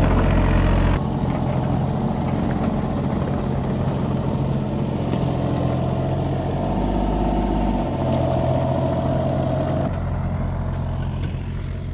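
Excavator's diesel engine running steadily as the machine is driven, with a higher hum rising over it in the middle.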